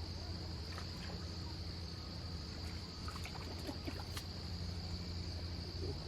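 Steady insect chorus of crickets, a continuous high drone, with a few faint clicks about three to four seconds in.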